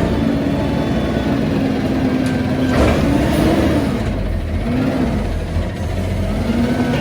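Peterbilt garbage truck with a Heil body, its engine running loud and revving up and down several times. A single knock sounds about three seconds in.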